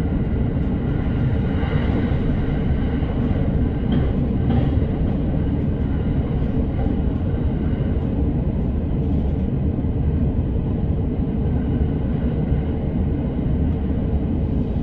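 Electric commuter train running on the line, heard from inside the car: a steady rumble of wheels on rail with a faint steady whine above it.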